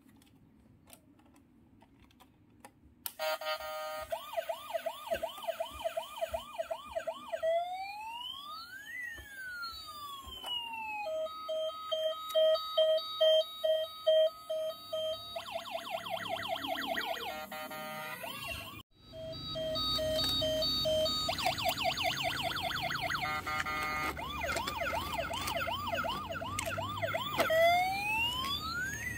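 Toy police truck's electronic siren sound module playing a cycle of siren effects: fast repeating yelps, long rising and falling wails, and steady beeping tones. It starts about three seconds in and breaks off briefly about two-thirds of the way through.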